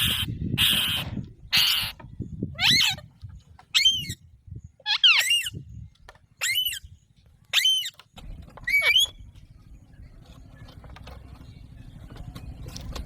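Alexandrine parakeet calling: a few harsh screeches in the first two seconds, then a run of about six short, sharp pitched calls roughly a second apart, ending about nine seconds in. A low steady hum sits under the last few seconds.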